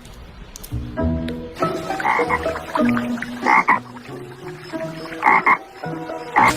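Frog croaking: four short, pulsed croaks spaced a second or two apart.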